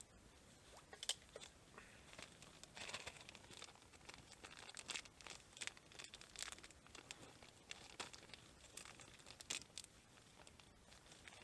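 Faint, irregular crinkling and crackling: a scatter of short, sharp clicks and rustles, busiest through the middle.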